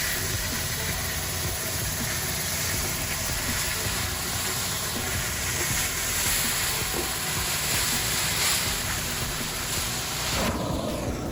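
CX-15 rotary carpet extraction tool working a carpet: a loud, steady rush of vacuum suction and spray with a faint high whine on top. It cuts off suddenly near the end.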